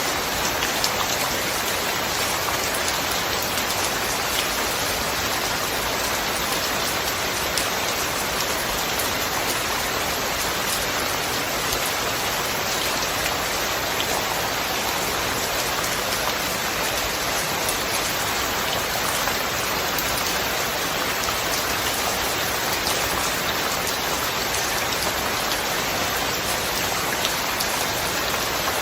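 Steady rainfall, an even hiss of rain with scattered individual drops ticking through it. There is no thunder.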